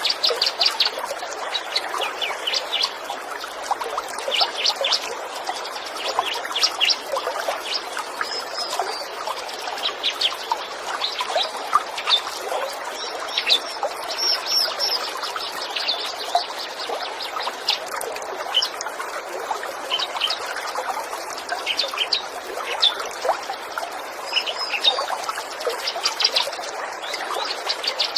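Bar-winged prinia (ciblek) chirping in quick runs of high repeated notes over a steady trickle of running water.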